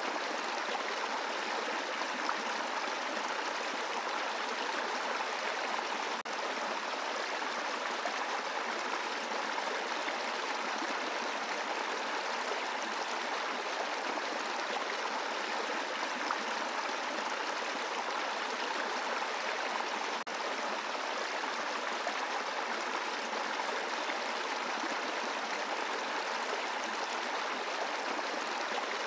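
Brook running over a bed of rocks: a steady rush and babble of water, with two brief dips in level, about six seconds in and about twenty seconds in.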